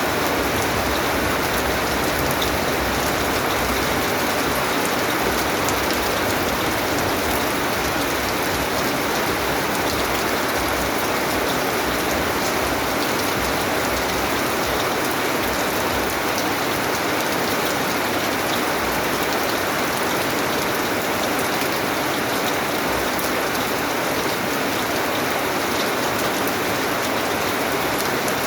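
Steady rain falling on surfaces, a constant even hiss with scattered small drop ticks.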